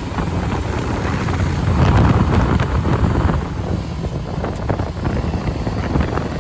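Side-by-side UTV being driven, its engine rumbling under heavy wind buffeting the microphone, with scattered knocks and rattles.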